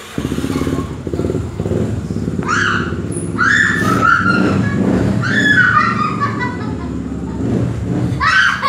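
A motorcycle engine starts up suddenly and keeps running with an uneven, pulsing note. From about two and a half seconds in, higher sounds that fall in pitch come in over it again and again.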